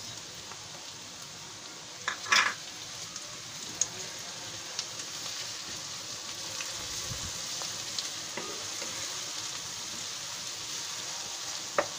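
Chopped onions and ginger-garlic paste sizzling in hot oil in a non-stick pan, stirred with a wooden spatula; a steady high sizzle with a brief louder burst about two seconds in and a few light knocks of the spatula.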